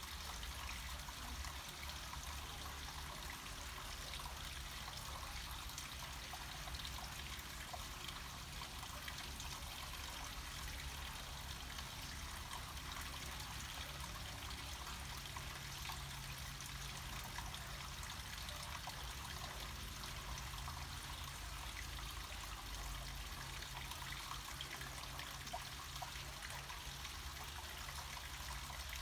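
Water flowing steadily down a small mountain stream or cascade: an even, unbroken rushing hiss with a low rumble underneath.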